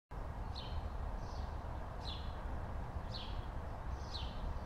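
A small bird chirping over and over, short falling chirps about once a second, over a low steady outdoor rumble.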